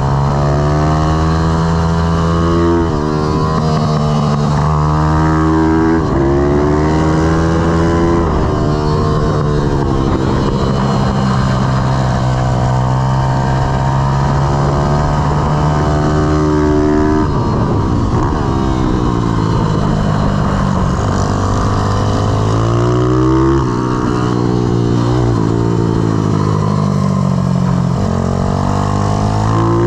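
Pit bike's YX160 single-cylinder four-stroke engine under hard riding, revving up and dropping back over and over as it is pushed through gears and eased off for corners.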